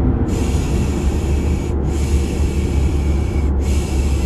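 Steady low car engine drone with a long 'shhh' shushing sound laid over it, repeated three times with short breaks: the 'piş piş' sound used to lull a baby to sleep.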